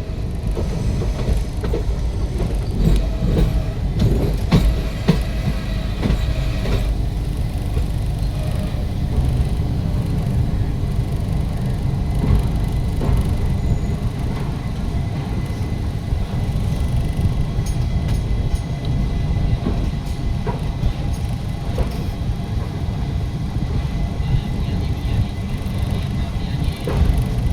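Parashuram Express passenger train running along the line: a steady low rumble of wheels on rail, with scattered clicks and rattles, most of them in the first few seconds.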